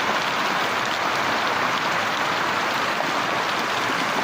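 Heavy rain falling steadily, an even hiss loud enough to drown out speech.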